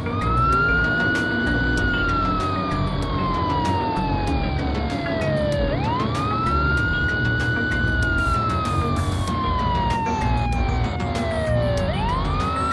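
Emergency-vehicle siren wailing over background music: each cycle rises quickly, holds briefly, then falls slowly over about four seconds, and starts again roughly every six seconds.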